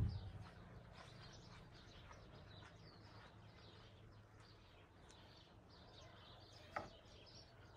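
Near silence, with faint scattered bird chirps and one slightly louder chirp near the end.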